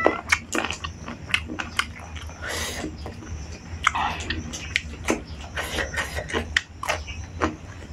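Close-up eating sounds: wet chewing and biting with many short, crisp clicks and crunches, including bites into a raw cucumber slice.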